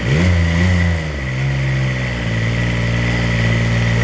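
Freshly rebuilt Kubota diesel engine running. Its speed rises and falls back about a second in, then holds a steady lower speed.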